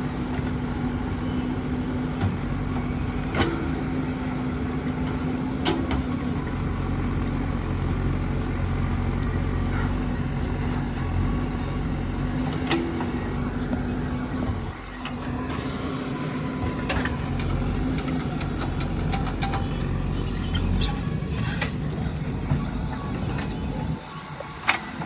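JCB 3DX backhoe loader's diesel engine running steadily while working, with a few sharp metallic clanks scattered through and two brief dips in engine note.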